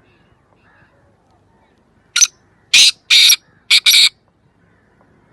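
Black francolin (kala teetar) calling: a burst of five loud, harsh, grating notes over about two seconds, short and long notes mixed, starting a couple of seconds in.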